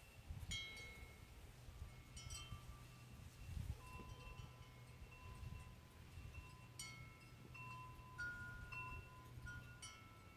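Chimes ringing at irregular intervals: clusters of strikes leave several clear metal tones ringing on and overlapping, over a faint low rumble.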